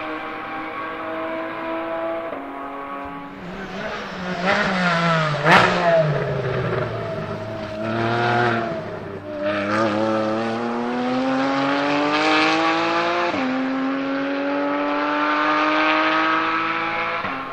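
A Porsche 718 Cayman GT4 test car's flat-six engine pulling hard on track, with its note dropping suddenly at each upshift. The car passes close about five seconds in, which is the loudest moment. It then accelerates away with a steadily rising note, shifting up twice more.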